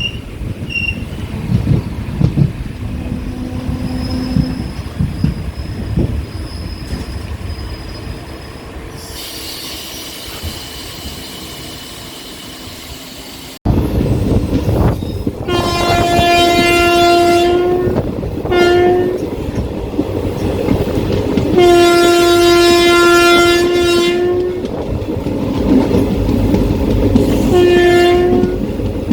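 Train running along the track, its noise fading, then after a sudden cut the train's horn sounds four times over the rumble of the carriage: a long blast, a short one, another long blast and a short one near the end.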